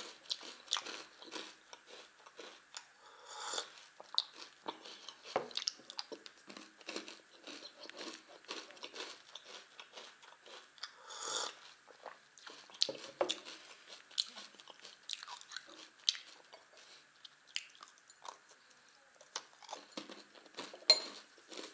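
Close-up crunchy chewing of a multigrain cereal candy with white glaze, many small crisp crunches. Partway through there is a sip of tea from a mug.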